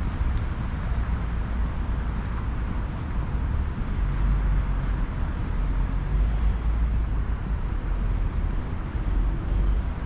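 City street ambience: steady traffic noise with a low, gusting wind rumble on the microphone that grows heavier about four seconds in.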